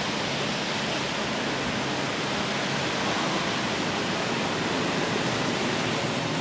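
Steady hiss of rain falling on a town street, with a faint low hum underneath.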